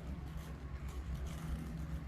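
Low steady mechanical rumble with a hum below the mid range, with faint scattered ticks above it.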